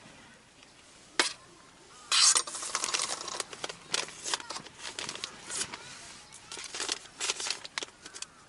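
A sealed packet of coffee beans being opened and handled. A sharp click a little over a second in, then from about two seconds on irregular crinkling and rattling of the packet and beans.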